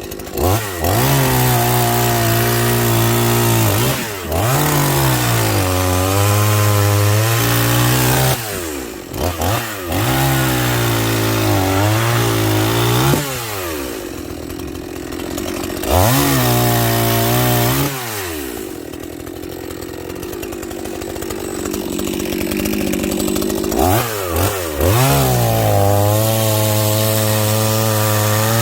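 Two-stroke chainsaw cutting through logs: the engine revs up to full throttle and holds for several seconds at a time under load, then drops back to idle between cuts. There are about five cuts, with a longer spell of idling partway through.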